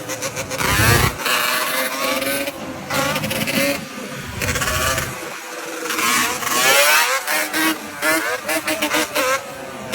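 Motorcycle engines running and revving, rising and falling in pitch.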